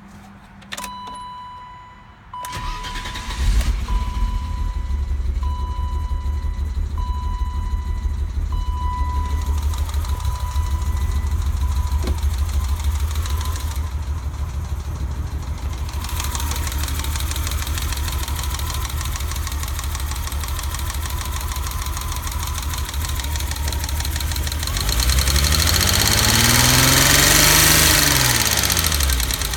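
BMW E30 engine cranked and catching about two to three seconds in, then idling unevenly with a misfire that a new distributor cap and rotor have not cured; it is revved once near the end, the pitch rising and falling back. A repeating beep warning chime sounds over the first ten seconds or so.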